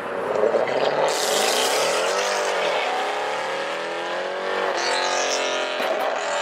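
A performance car engine revving hard as the car pulls away, its pitch rising and falling in several sweeps. A harsh rushing noise comes in about a second in and again near the end.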